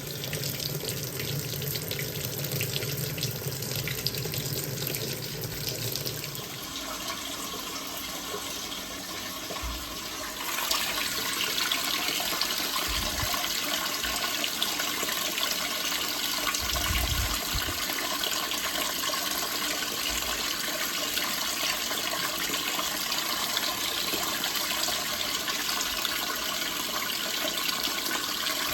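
Water running and splashing inside a Hoover 1400 top-loading washing machine during its rinse. A low hum under it stops about six seconds in, and about ten seconds in the water gets louder and stays a steady rush.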